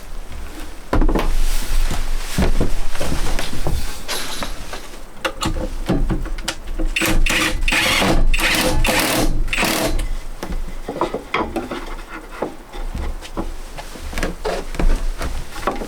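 Work on wood with hand tools: irregular knocks and handling of boards, with a run of quick rasping strokes about halfway through.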